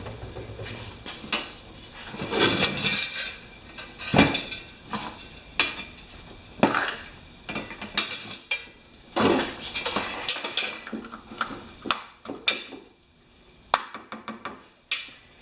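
Scattered metal clinks, knocks and scrapes, a dozen or so irregular strikes, from parts and tools being handled; no engine is running.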